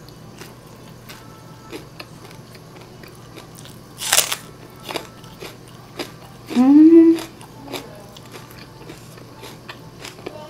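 Close-miked crunchy chewing of fried chicken and raw green onion, with a loud crunch about four seconds in. Halfway through comes a short rising "mmm" of enjoyment.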